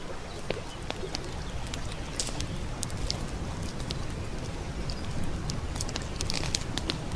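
Wood campfire crackling, with irregular sharp pops and snaps, a small cluster of them about two seconds in and a denser burst near the end, over the steady rush of a brook.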